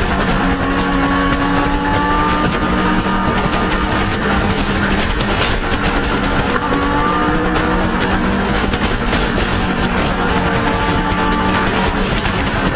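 Motorcycle engine running while riding, its pitch drifting gently up and down, over a steady rushing noise.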